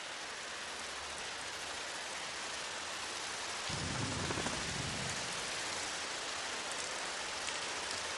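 Steady rain falling, with a low rumble of thunder about four seconds in.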